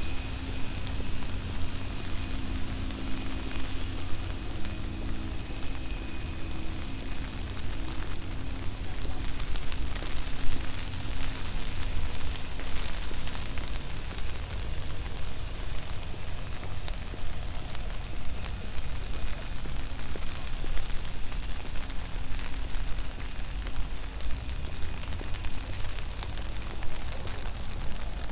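Steady rain falling on a wet city street, an even crackling patter over a low rumble.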